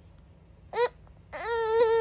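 A five-month-old baby vocalizing: a short rising squeal about three-quarters of a second in, then a long held, steady-pitched 'aah' starting about a second and a half in.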